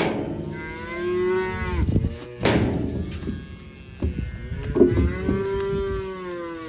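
Calves bawling: two long, drawn-out moos a few seconds apart, with a few sharp knocks between them.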